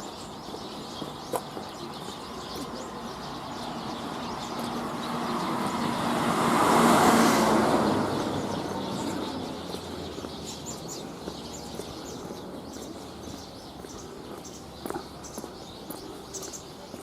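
A car passes on the street, growing louder to a peak about seven seconds in and then fading away, over steady traffic noise.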